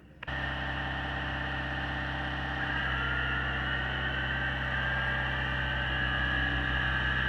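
Excavator's diesel engine running steadily with a high whine over it. It comes in abruptly just after the start.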